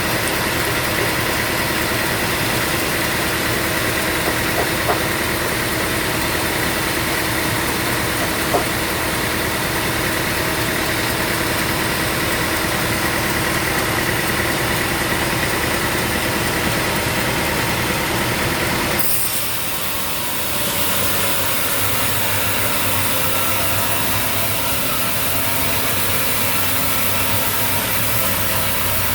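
Sawmill machinery's engine running steadily with a steady hum. About two-thirds of the way through the sound changes abruptly to a hissier running noise with less low rumble.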